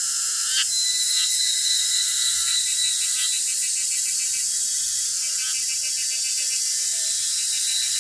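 Steady chorus of insects: a high, even hiss with rapid pulsing trills over it, individual trills starting and stopping every second or so.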